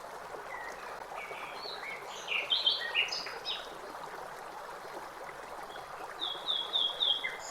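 Small birds chirping over a steady rush of flowing water. A flurry of short chirps comes about two to three seconds in, and a run of four quick repeated notes near the end.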